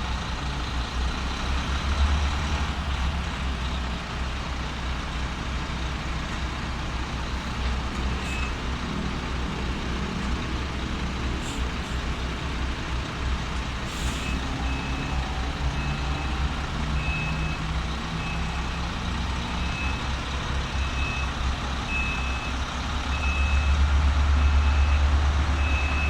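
Diesel engine of a UD Trucks Quester prime mover running steadily while reversing. Its reverse alarm beeps about once a second from roughly halfway through, and short hisses of air come a few times. The engine grows louder near the end.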